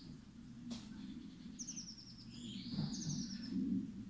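A songbird singing: two short phrases of quick, descending high notes, one with a swooping lower note, plus a single sharp tick under a second in.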